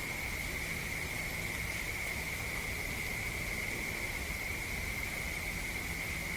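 A steady chorus of night insects, one even high-pitched trill that never breaks, over a low steady background rumble.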